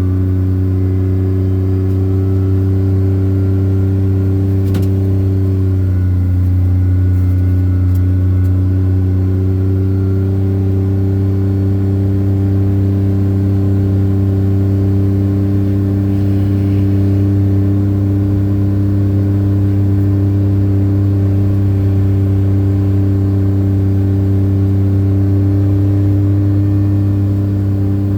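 An engine running steadily, a low even hum with a slight shift in pitch about six seconds in.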